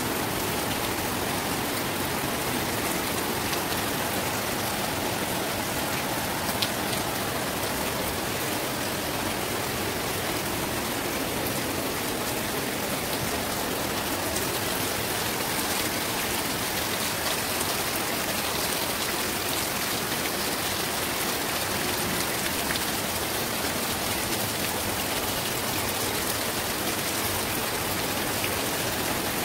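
Steady rain falling on wet concrete, an even dense hiss of drops, with one brief sharp tick about seven seconds in.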